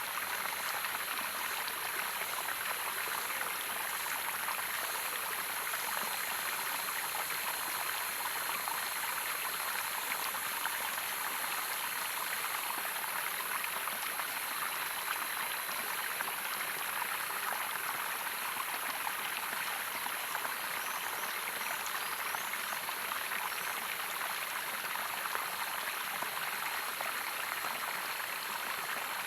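Waterfall's running water, a steady, even rush with no pauses. A steady high-pitched hiss sits above it.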